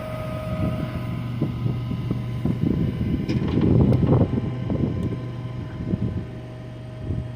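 Altec AT200 aerial boom on a bucket truck starting to move under power from its running Onan 7 kW generator: a steady hum, with irregular knocks and rattles from the boom and bucket that are busiest about halfway through.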